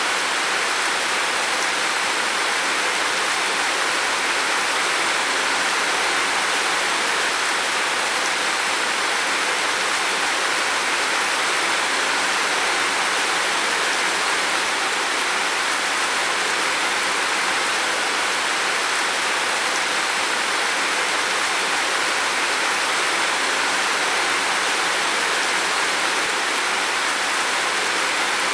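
Heavy rain falling on a roof: a dense, steady hiss of drops without break or change.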